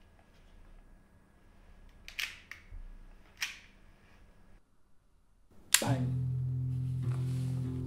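Two brief sharp snaps about a second apart, then near the end a single loud gunshot-like bang that leads straight into sustained guitar chords of the film's score.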